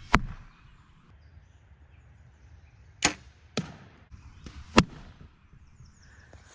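Compound bow being shot at balloons: sharp snaps of the string releasing arrows. The loudest comes just after the start and more follow about three and five seconds in, with fainter clicks between.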